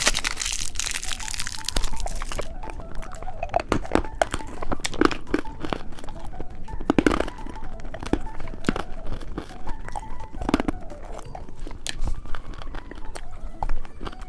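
A candy wrapper crinkling and tearing open for the first couple of seconds, then hard candy crunched and chewed close to the microphone with repeated sharp crunches.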